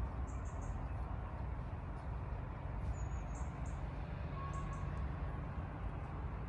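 Outdoor ambience: a steady low rumble with short, high bird chirps in quick groups of two or three.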